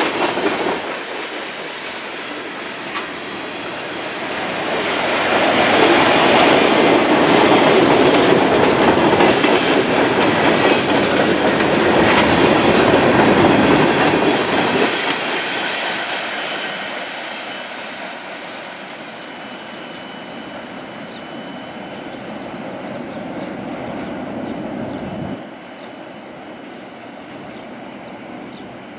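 Freight cars of a long mixed freight train rolling past, wheels clacking over the rail joints, loudest in the middle and then fading as the train moves away, with a brief thin wheel squeal about twenty seconds in. The level drops suddenly near the end, leaving a fainter rumble of the departing train.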